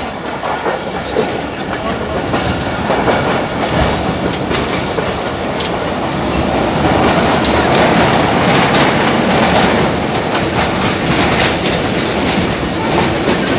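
Karachi Circular Railway passenger train running at speed, heard from inside the carriage at the window: a steady rumble and rush of noise with irregular clacks of the wheels over the rail joints.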